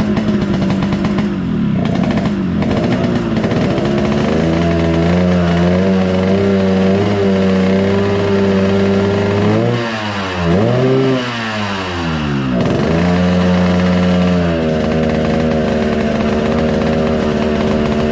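Yamaha RX-King two-stroke single-cylinder engine running while it is being tuned. The revs sag early and recover to a steady speed, then swing down and up twice about ten to twelve seconds in, and settle at a slightly lower idle near the end.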